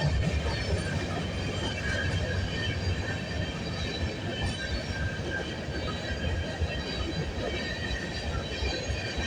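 A freight train's cars rolling past: a steady rumble of wheels on rail, with thin, high squealing tones from the wheels coming and going throughout.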